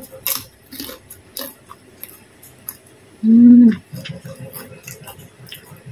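Close-up eating sounds of a woman chewing rice and chicken: wet lip-smack and chewing clicks. About three seconds in, a short, loud, steady hummed "mmm" of enjoyment lasting about half a second.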